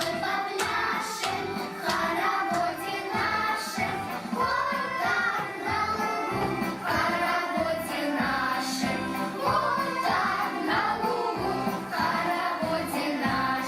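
Children's song music playing, with a group of children singing along.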